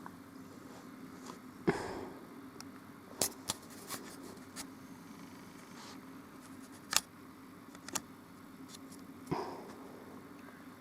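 Scattered sharp clicks and knocks of small objects being handled, the loudest about two seconds in and about seven seconds in, over a faint steady hum.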